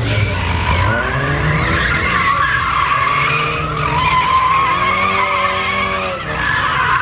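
Car tires spinning and squealing continuously on pavement while the car's engine revs, its note rising and falling several times.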